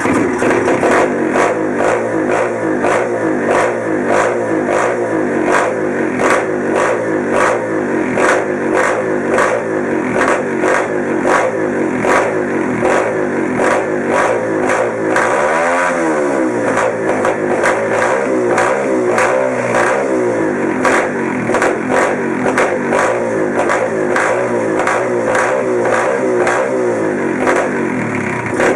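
124cc single-cylinder four-stroke pit bike engine running at a steady speed, with a quick throttle blip about halfway through and a smaller one shortly after.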